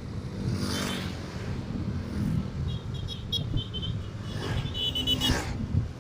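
Motorcycle riding along the road: a steady low engine and wind rumble, with two vehicles swishing past, one about a second in and one near the end. Short high-pitched tones repeat through the second half.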